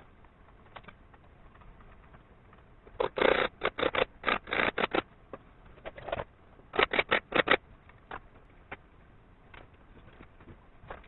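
Two bursts of quick, sharp clicks and knocks, each lasting a second or two, with a few single clicks between and after.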